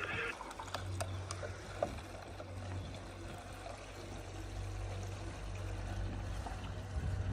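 Diesel engine of the machinery running steadily at low revs, a low even hum, with a few light knocks and clicks in the first two seconds.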